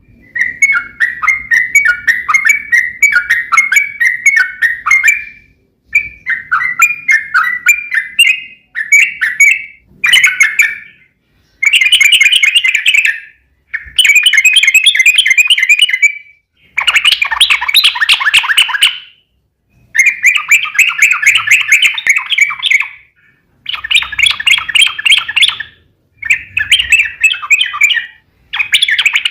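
Yellow-vented bulbul (trucuk) singing: long rolling phrases of rapid chattering notes, each one to three seconds long, with short pauses between them. It is a trucuk lure recording, meant to make other trucuk answer.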